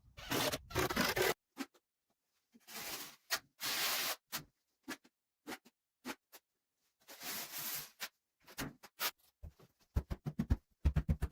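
Several scraping strokes of a hand tool on a hard surface, each starting and stopping abruptly. Near the end comes a fast run of short knocks.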